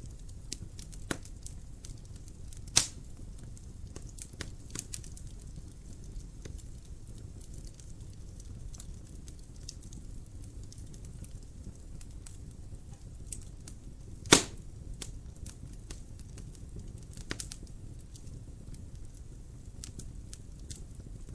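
Wood fire burning in a fireplace: scattered light crackles over a low steady rumble, with two loud sharp pops, one about three seconds in and a louder one about fourteen seconds in.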